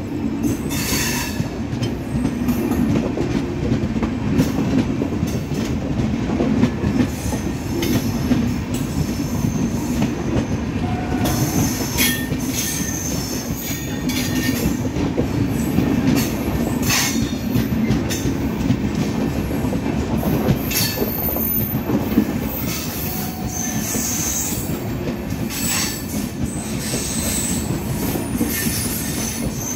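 Indian passenger train coaches rolling past close by as the train pulls out of a station: a steady rumble of wheels on rail, broken by scattered sharp clacks and brief wheel squeals.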